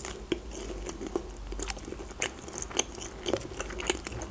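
Close-miked chewing of a chicken McNugget: a string of small, irregular crunches as the breaded coating is bitten and chewed.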